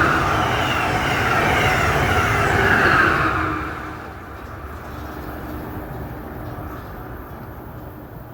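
Train passing at speed on the Northeast Corridor, its wheel and rail noise falling in pitch, then dying away about three and a half seconds in to a fainter rumble as it recedes.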